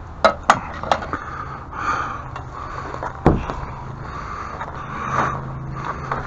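Work noise: three sharp knocks in the first second and a heavy thump about three seconds in, over ongoing scraping and rustling.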